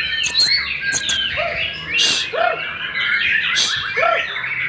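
White-rumped shama (murai batu) singing a fast, varied song of overlapping whistles, trills and chirps, with three lower swooping notes spaced about a second apart.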